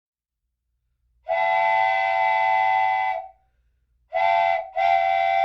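Train whistle blowing three steady blasts, long, short, then long.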